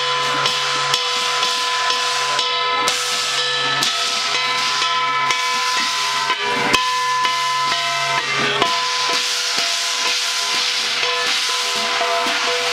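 Chinese ritual percussion: drum strokes in a steady beat of about two a second, over a crashing, hissing wash of cymbals and a few held ringing tones.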